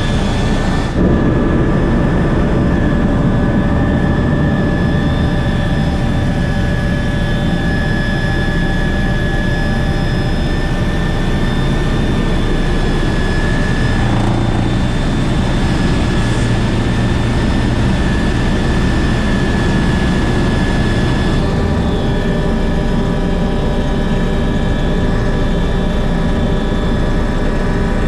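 MBB Bo 105 helicopter in flight: the steady high whine of its twin turbine engines over the low rumble of the rotor, with small shifts in the mix about a second in, around fourteen seconds and around twenty-one seconds.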